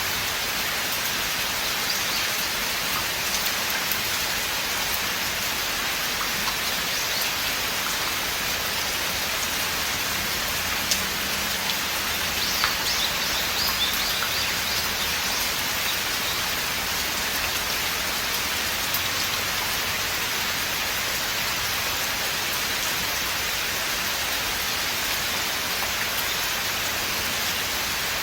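Steady rain falling in a forest: a dense, even hiss of drops on leaves and ground, with occasional louder single drops ticking out of it.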